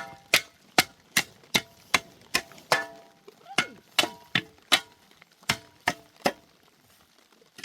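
Repeated sharp knocks, each with a short metallic ring, about fifteen in short runs at two to three a second, stopping a little over a second before the end.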